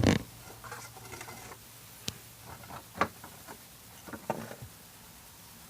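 Handling noises as something is searched for and picked up. A loud knock comes at the start, then light rustling and scattered sharp clicks about two, three and four seconds in.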